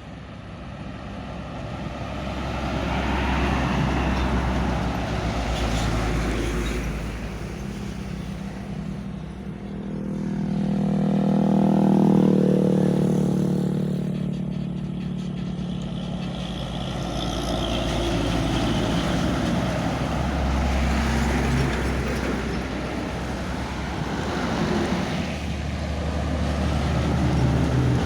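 Hino Ranger truck's diesel engine running, swelling louder and fading several times. It is loudest about twelve seconds in, where its pitch rises and then falls.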